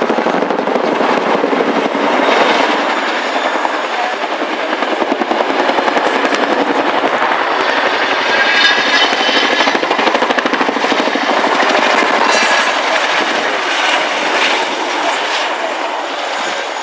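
Boeing Chinook tandem-rotor helicopter in flight: the blades of its two big rotors slapping in a rapid, steady chop that eases a little near the end.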